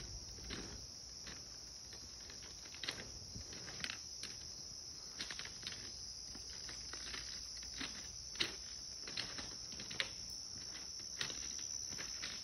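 Faint steady high-pitched chirring of crickets, with scattered light clicks and taps at irregular intervals.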